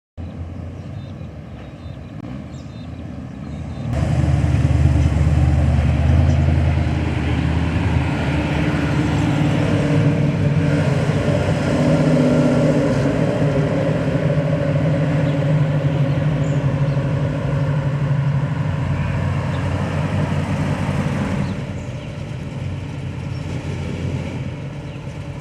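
Engine of a show vehicle running at a steady speed, getting louder about four seconds in and easing off again near the end.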